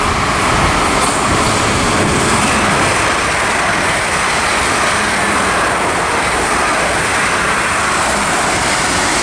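A pair of Class 444 Desiro electric multiple units passing through the station at speed: a loud, steady rush of wheels on rail and moving air that holds level throughout.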